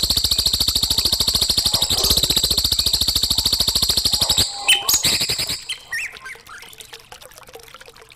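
Songbird song from a cage-bird training recording: a fast, high, rattling trill that goes on for about four and a half seconds, then a few short separate calls, fading to faint chirps near the end.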